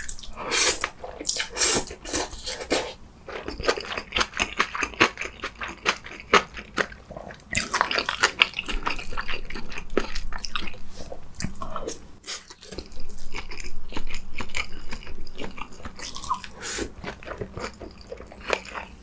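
Close-miked eating: a mouthful of noodles slurped in, then wet chewing with many quick small clicks, growing louder in a few stretches.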